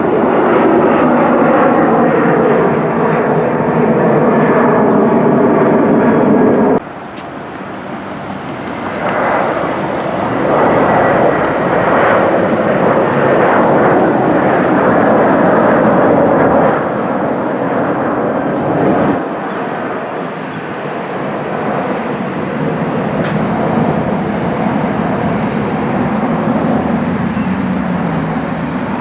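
Jet airliner engines passing, a loud rush with several tones that slowly fall in pitch. The sound cuts off suddenly about seven seconds in and again around nineteen seconds, each time giving way to more jet noise, with another falling tone near the end.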